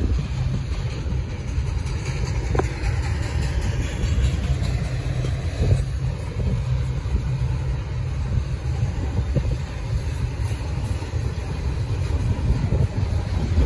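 Double-stack intermodal freight train's cars rolling past close by: a steady low rumble of steel wheels on rail, with a few sharp knocks.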